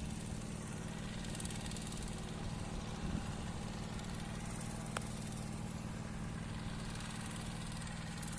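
Small engine running steadily at an even pitch, a constant drone. There is a single faint click about five seconds in.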